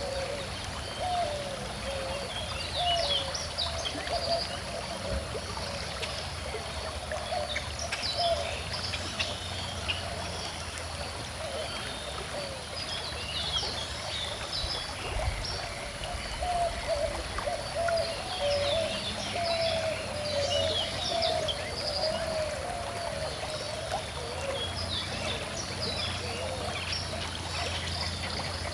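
A calm river flowing and trickling steadily, with small birds chirping and singing throughout.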